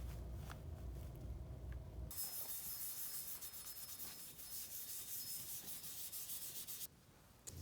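Sanding: a low, steady running sound for the first two seconds, then a high, steady hiss that stops suddenly about seven seconds in.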